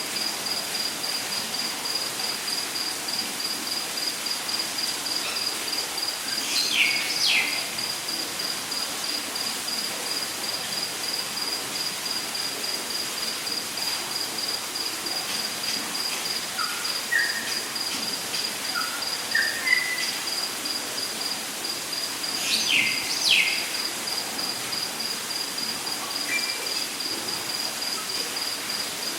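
Rainforest ambience: an insect trilling steadily at a high pitch in rapid even pulses, over a faint even hiss. Birds call twice with a pair of quick downward-sweeping notes, and between these a series of short notes steps upward in pitch.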